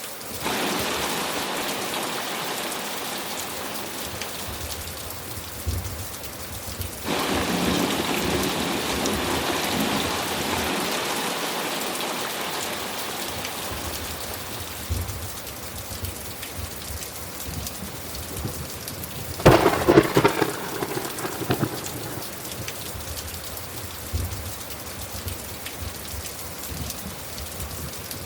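Steady rain falling through a thunderstorm, with thunder swelling in twice early on. A loud crackling thunderclap comes about two-thirds of the way through and is the loudest moment.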